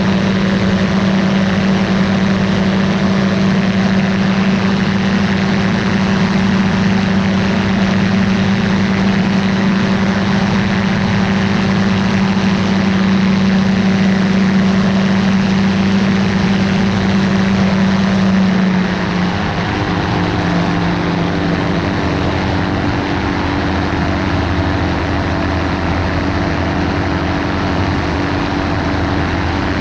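Ultralight aircraft engine and propeller running steadily at cruise power. About two-thirds of the way through, the engine note drops slightly and settles, as power is eased back.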